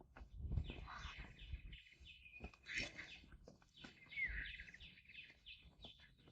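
Faint birdsong: series of short, quickly repeated chirps, with one brief falling whistle past the middle. Dull low rustles and knocks sound underneath, as of walking.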